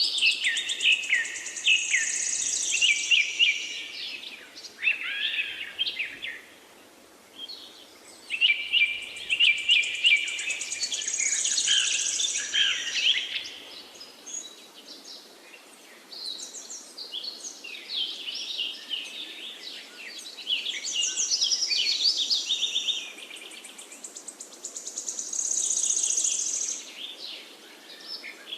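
A songbird singing long, intricate phrases of quick chirps and high trills, in four bouts of a few seconds each with short pauses between.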